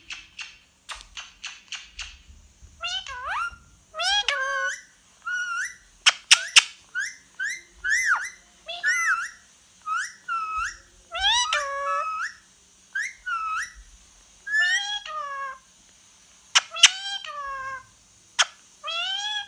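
A bird giving a long series of loud, whistled calls that sweep and curl in pitch, each about half a second long. They follow a quick run of short clicks in the first couple of seconds.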